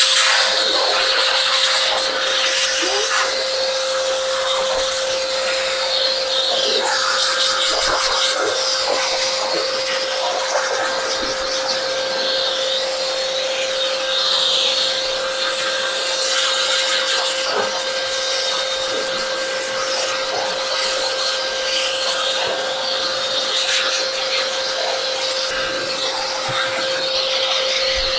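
Small electric blower motor running steadily with a high whine and rushing air, blowing dust out of a computer case, with light clicks and rubbing from work on the parts.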